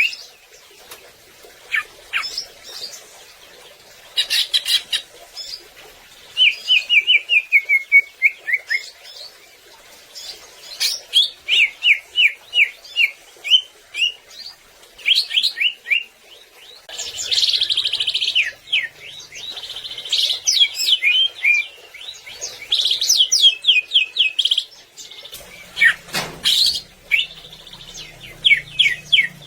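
Cucak ijo (greater green leafbird) singing vigorously in rapid strings of short, sharp whistled notes, many sweeping down in pitch, in phrases broken by brief pauses. A faint low hum comes in near the end.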